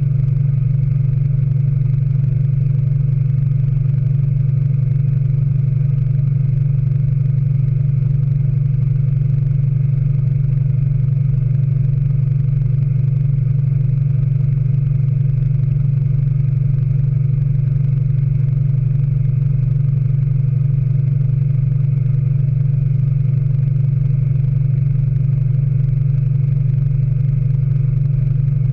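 Speed Queen 9 Series washing machine in its final spin, the drum turning at steady full speed with a loud, even low hum that does not change.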